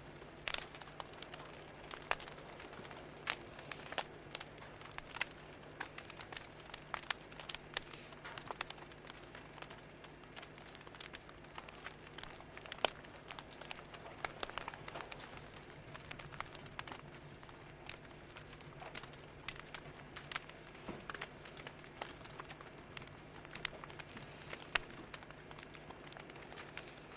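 Wood fire crackling: irregular sharp pops and snaps over a soft hiss, with a faint steady hum underneath.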